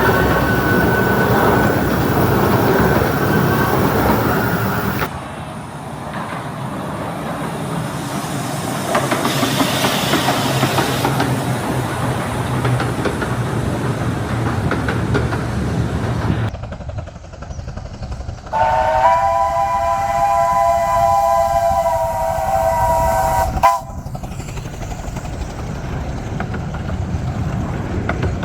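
Narrow-gauge steam locomotives at a whistle contest: a two-note whistle sounding, then train running noise, then a chime whistle blowing a chord of several notes for about five seconds. Abrupt cuts come about five seconds in, near the middle and after the chime whistle.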